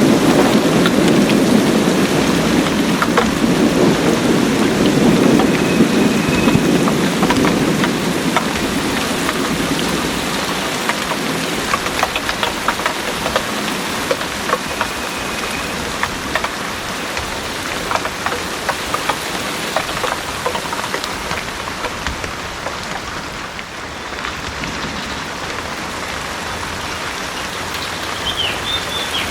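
Heavy rain pouring steadily, with many distinct drips. A low thunder rumble is strong at first and dies away over about the first ten seconds. A few brief faint high whistles are heard now and then.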